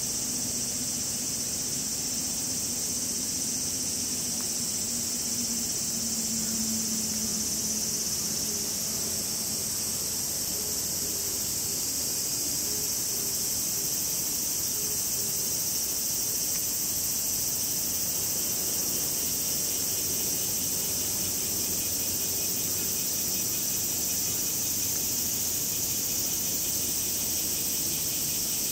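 Cicadas singing in a steady, unbroken high drone.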